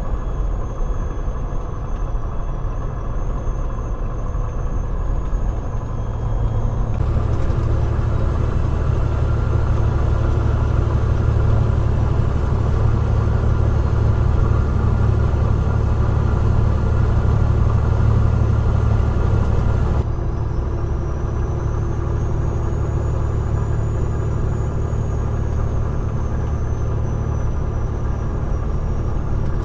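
Peterbilt 389 glider semi-truck running down the road, a steady engine and road rumble. About seven seconds in the low rumble grows heavier and louder, then it eases back down about twenty seconds in.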